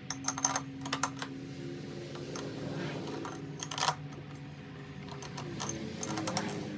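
Small metal parts and tools clinking and clicking on a workbench during reassembly of a leaf blower's carburetor end, in clusters of sharp clicks. A steady low hum runs underneath.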